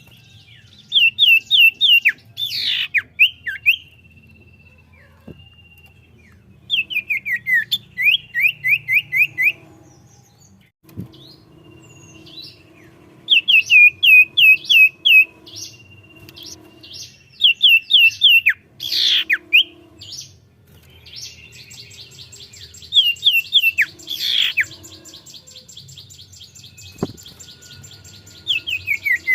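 Common iora (cipoh) singing actively, in runs of quick, falling whistled notes, each run several notes long, with loud sweeping notes between runs. A long rapid trill starts about two-thirds of the way in and runs on.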